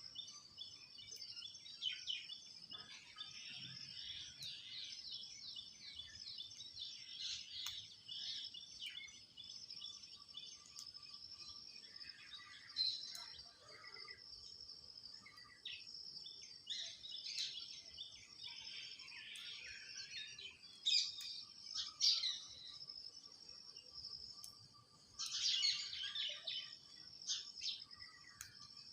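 Birds chirping and chattering in many short, quick calls, with a steady high-pitched drone underneath.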